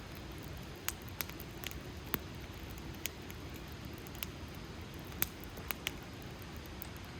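Wood campfire crackling: a steady low hiss of burning with irregular sharp pops and snaps from the burning wood, about a dozen in a few seconds, the sharpest about two and five seconds in.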